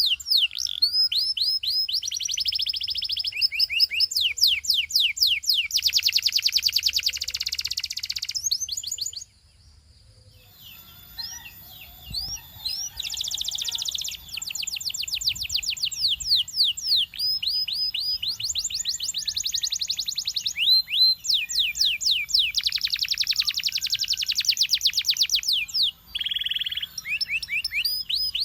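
Canary singing in long, fast trills of rapidly repeated downward-sweeping notes, changing from one trill to the next, with a short pause about nine seconds in.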